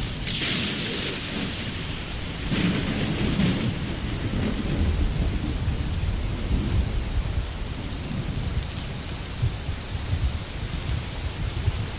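Steady rain falling on a forest, with a low rumble of thunder underneath. Twice in the first few seconds the hiss of the rain swells briefly louder.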